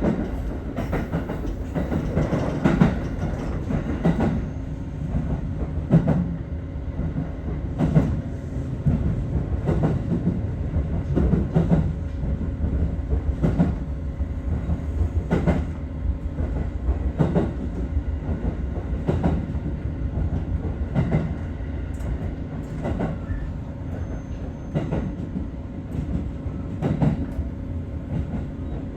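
Aichi Loop Railway 2000 series electric train running at speed: a steady rumble and hum, with wheels clicking over rail joints about every two seconds.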